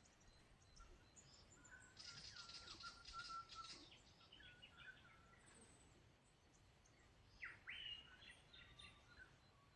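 Faint birdsong: a flurry of chirps and trills about two seconds in, and a few sharp, quickly gliding calls later on, over a soft background hiss.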